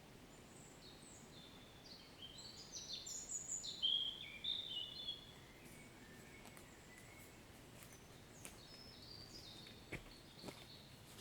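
A songbird singing a quick run of short, high notes that step down in pitch, loudest a few seconds in, then continuing more softly, over a faint steady hiss.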